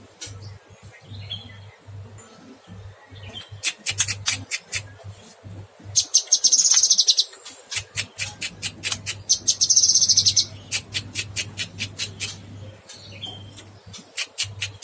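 Cucak kinoy singing: a quick string of sharp chip notes, broken twice by a loud, dense, high buzzy trill lasting about a second, over a faint steady low hum.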